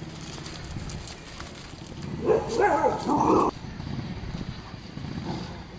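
A dog barking in one burst of about a second, roughly two seconds in.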